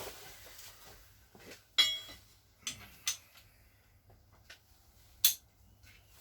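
A few sharp metallic clinks and knocks of engine parts and tools being handled; the loudest comes about two seconds in with a short ring, and others follow near three and five seconds.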